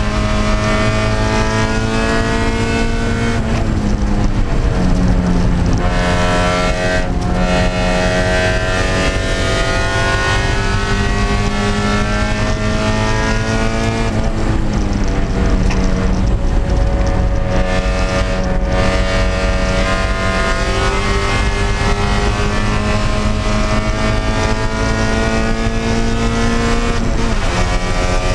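Spec Miata (Mazda MX-5) race car's four-cylinder engine running hard, heard from inside the cabin. The engine note climbs slowly as the car accelerates and drops sharply three times: about three and a half seconds in, about halfway through, and near the end. Each time it climbs again.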